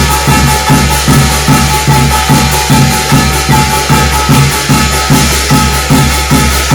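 Percussion music of a Korean shamanic gut ritual: a steady, even drum beat at about two and a half strokes a second under continuous metallic jingling and ringing.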